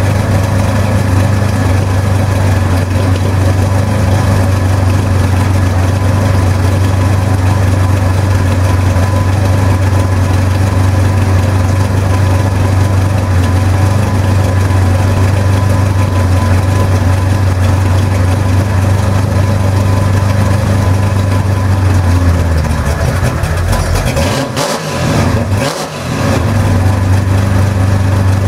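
Holden 308 V8 running through a dual exhaust with Aeroflow mufflers, holding a steady low exhaust note. The note briefly dips twice near the end, then settles back to steady running.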